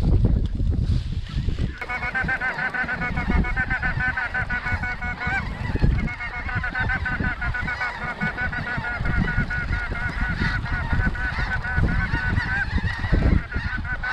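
A flock of snow geese calling, many high-pitched honks overlapping into a steady clamour that swells in about two seconds in.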